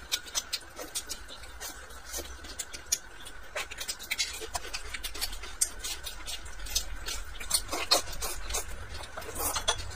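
Close-miked chewing of a mouthful of steamed bun, with irregular wet clicks and lip smacks several times a second.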